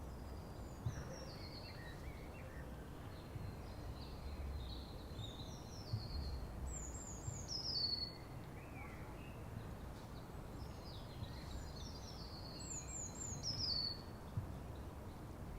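White-throated kingfisher calling: two loud descending trills about six seconds apart, with scattered shorter high chirps between them over a low background rumble.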